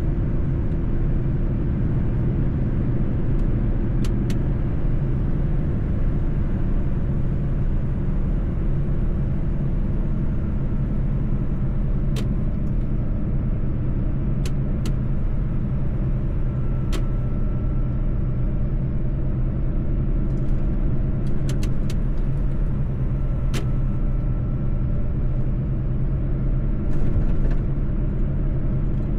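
Mercedes-Benz truck's engine running steadily while driving, a continuous low drone with road rumble. A few scattered sharp clicks sound over it.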